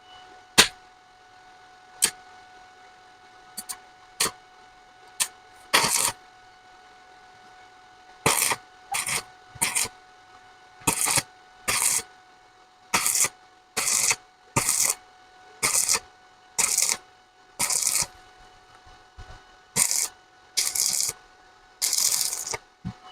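Stick (arc) welder crackling in short bursts, about one a second, as a common 2.5 mm electrode lays short welds on a broken cast-iron bench vise. A few sharp single clicks come first, before the bursts begin.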